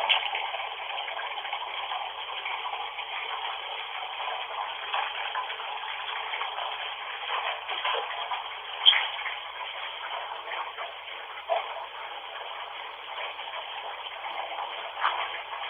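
Steady hiss heard through a narrow, telephone-like channel, with scattered faint crackles and a sharper click about nine seconds in.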